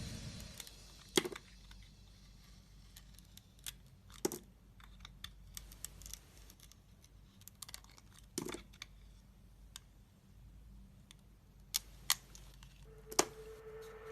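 Sparse, light clicks and ticks of a knife cutting and tapping on bar soap, with a handful of sharper clicks spread through.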